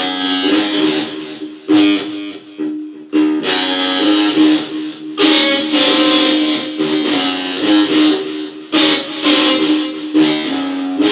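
Guitar playing a blues, chords struck and left to ring, with single notes picked between them.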